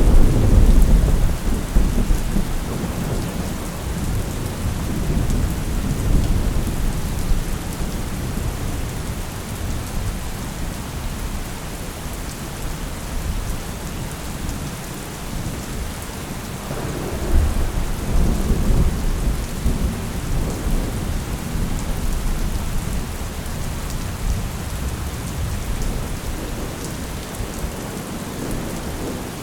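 Thunderstorm: steady rain falling throughout, with a loud low thunder rumble breaking right at the start and rolling on for several seconds. A second rumble comes about seventeen seconds in.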